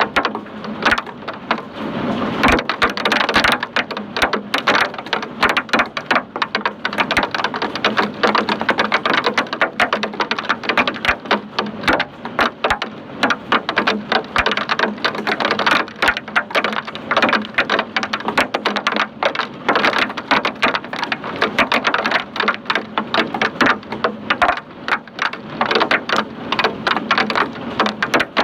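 Hailstorm: a dense, unbroken clatter of hailstones striking, many small sharp impacts.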